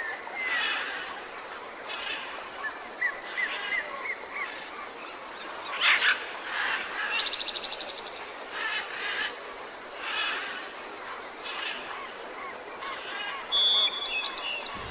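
Birds calling and chirping over a steady outdoor background, with a rapid trill about seven seconds in and a short whistled note near the end.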